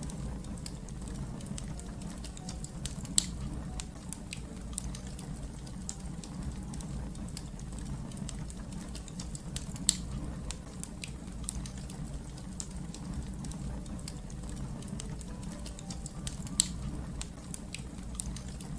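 Fire crackling in a fireplace: a steady low rumble of burning with a constant scatter of small snaps and three sharper pops spaced through it.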